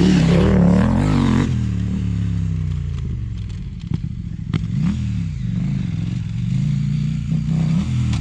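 Dual-sport motorcycle engine revving hard for about the first second and a half, then dropping back to a quieter run with a few short swells in pitch.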